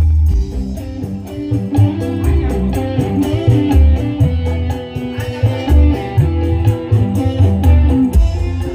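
Live dangdut band music played through a large concert sound system during a sound check: an electric guitar melody over heavy deep bass and a steady drum beat.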